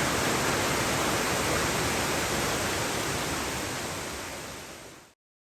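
Waterfall swollen by a sudden heavy downpour, its water rushing in a steady even roar that fades away over the last second or so and then stops.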